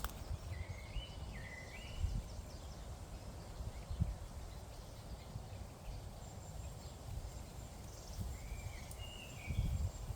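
Rural outdoor ambience: a bird gives short, stepped chirping calls twice, once near the start and again near the end, over a steady low rumble with a few soft thumps.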